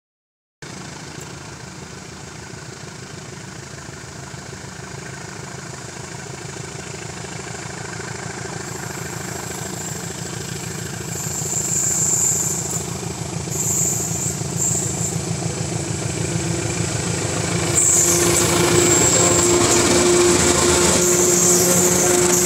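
Diesel locomotive hauling a passenger train, growing steadily louder as it approaches. About eighteen seconds in, the locomotive passes close and the sound jumps to its loudest as the coaches run by on the rails.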